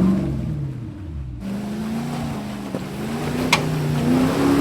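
Off-road 4x4's engine revving up and easing off under load on a rock obstacle. After an abrupt cut about a second and a half in, it runs on with a slowly rising pitch. A single sharp click about three and a half seconds in.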